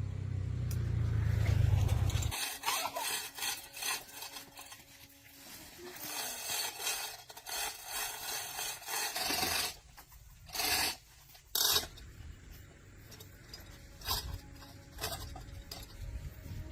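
A low rumble that stops abruptly about two seconds in, then irregular rasping and scraping strokes of hand work on a workpiece, with two louder, harsher bursts near the middle.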